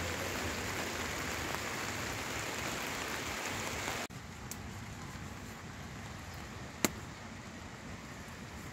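Steady rain hiss that drops abruptly to a fainter hiss about four seconds in. A single sharp click comes near the end.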